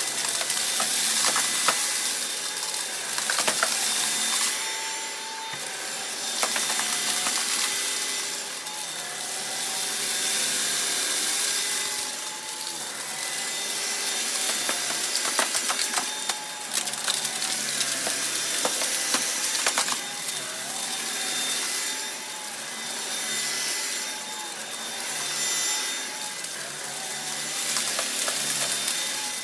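Upright vacuum cleaner running steadily, sucking up rock salt and dirt, with many sharp clicks of salt grains striking the brush roll and housing. Its level swells and dips every few seconds as it is pushed and pulled over the floor.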